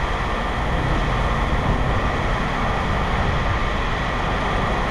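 Steady engine rumble with a faint, even high whine.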